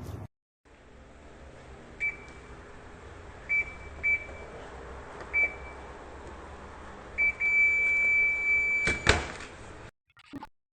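Midea fully automatic washing machine's control panel beeping: five short beeps at uneven gaps, then a long steady beep of about a second and a half, followed by a sharp click, the loudest moment.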